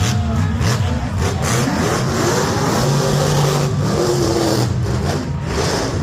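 Monster truck engine revving hard, its pitch climbing about two seconds in and dropping off a little after four seconds.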